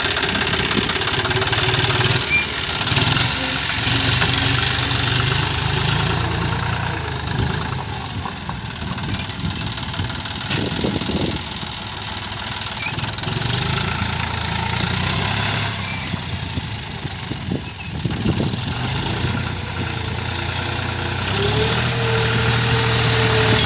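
John Deere 5045D tractor's 45 hp diesel engine running, its engine note shifting up and down several times.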